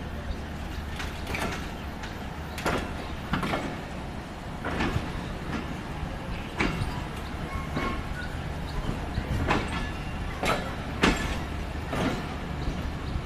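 Train running on the rails: a steady low rumble with irregular sharp clacks and knocks from the wheels and carriages, some coming in close pairs.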